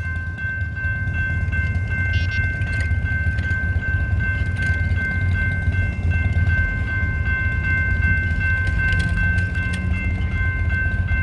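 Train passing a railroad crossing: a steady low rumble, with several steady high tones held throughout.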